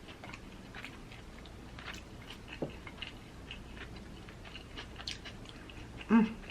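Close-up chewing and biting of soft tacos: wet mouth clicks and smacks at a steady low level. Near the end comes one short hum from the eater's voice, the loudest sound.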